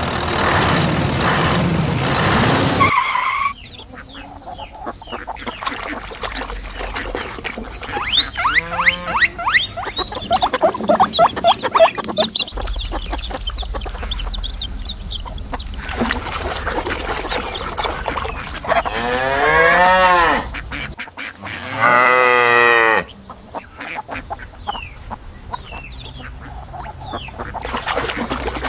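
Recorded farm animal calls played one after another, among them rapid quacking and long, pitched mooing.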